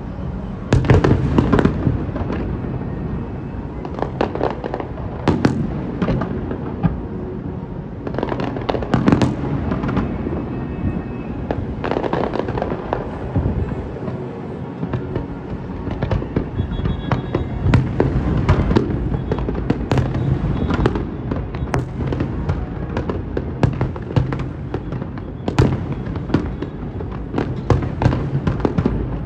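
Fireworks display going off in a continuous barrage: many sharp bangs and crackles, some in dense rapid clusters, with the loudest bursts about a second in and around nine and eighteen seconds in.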